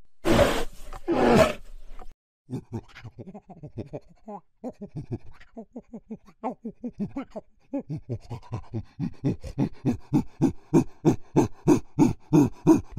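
Animal calls: two loud, rough roars, then a long series of short rhythmic grunts that grow louder and quicker, about three to four a second by the end.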